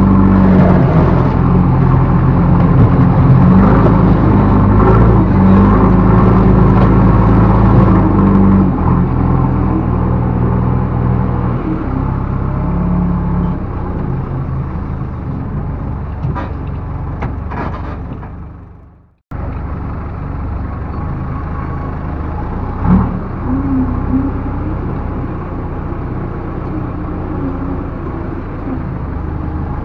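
Backhoe loader's diesel engine working: it runs loud and high at first, then gradually eases off. About two-thirds of the way through, the sound dies away completely and cuts back in abruptly, with the engine running steadily at a lower level and a single short knock soon after.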